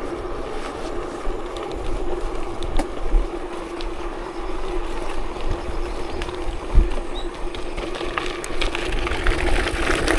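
Vehicle travelling along an unpaved forest road: a steady hum over a low rumble, with scattered knocks and rattles.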